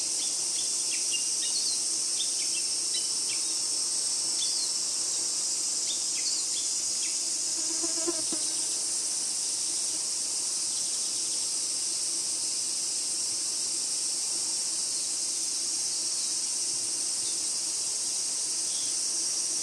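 Dense, steady high-pitched chorus of summer insects, with scattered short high chirps over it in the first several seconds.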